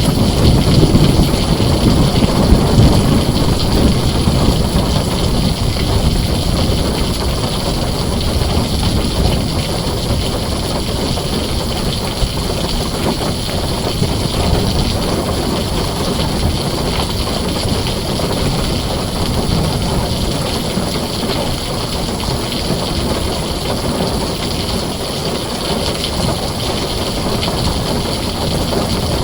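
Heavy rain drumming steadily on a tin roof. A low thunder rumble is loudest in the first few seconds and dies away.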